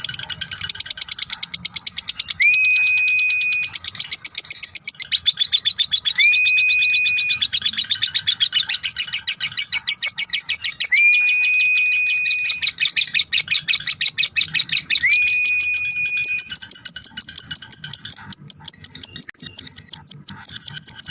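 Lovebird giving its long 'ngekek' chatter: a fast, unbroken stream of short, shrill notes with only brief dips. A steady, held whistle-like note sounds four times over it.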